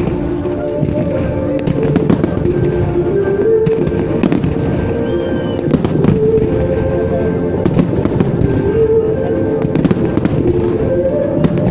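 Fireworks display: a dense, continuous run of bangs and crackle from firework bursts, over loud music with held notes.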